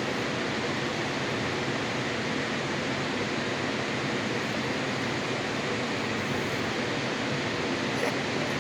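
Waterfall rushing: a steady, even roar of falling water with no change, and a faint click near the end.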